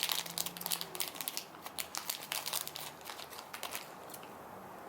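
Plastic candy wrapper crinkling and rustling as it is handled, in quick irregular crackles that die away about four seconds in.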